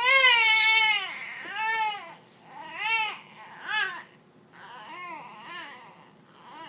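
A three-month-old baby crying hard: one long wail, then a string of shorter cries that fade to quieter whimpers.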